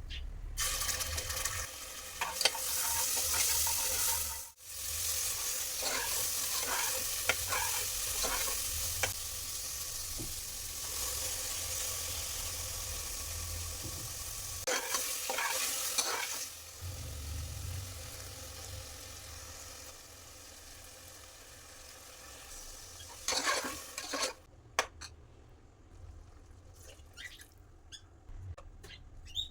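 Food sizzling in a hot pan while it is stirred, the utensil scraping and clicking against the pan. The sizzle stops about 24 seconds in, leaving a few light clicks.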